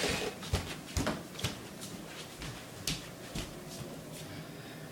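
Footsteps and handling noise: scattered soft knocks and clicks, a few a second, over a faint low room hum.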